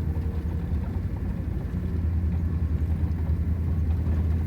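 A vehicle's engine running steadily as it drives slowly along a rough road: a constant low hum.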